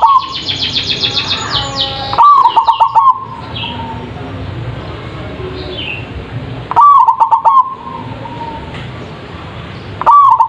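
Zebra dove (perkutut) cooing in a big voice: a loud staccato phrase of quick coo notes comes about every four seconds, three times. This is the kind of recording used as a lure to set captive perkutut singing. A high, fast trill of another bird runs through the first two seconds, and soft chirps fall between the phrases.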